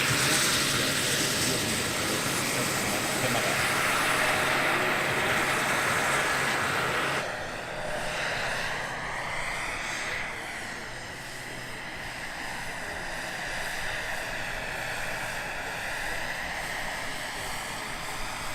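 Turbine engine and rotors of an RC scale Bell 412 model helicopter in flight: a steady whine over a rush of rotor air. It drops abruptly about seven seconds in, then rises and falls in pitch as the helicopter moves.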